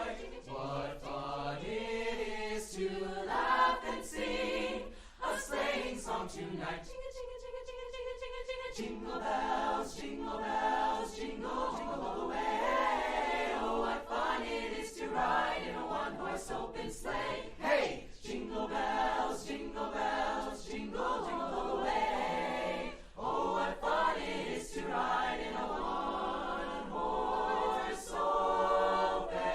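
Choir of student voices singing a Christmas song in harmony, with one long held chord about seven seconds in.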